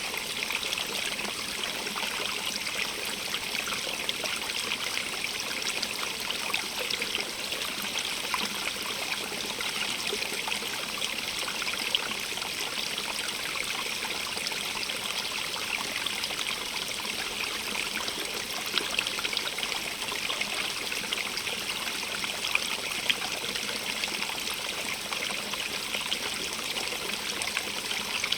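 A stream running steadily, with a constant trickling and splashing of water over stones.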